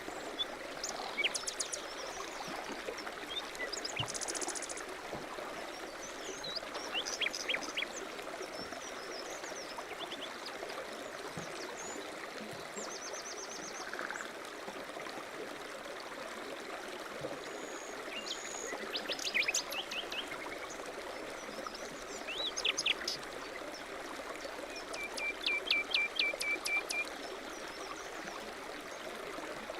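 A stream running steadily, with small birds chirping in short bursts every few seconds and a quick trill of notes near the end.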